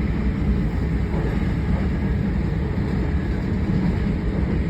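Interior of a moving South Western Railway Class 455 electric multiple unit: a steady low rumble of the wheels on the track and the running gear under the coach.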